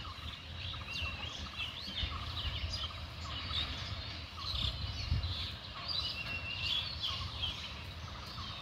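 Birds chirping and calling over and over, over a steady low rumble that swells briefly about five seconds in.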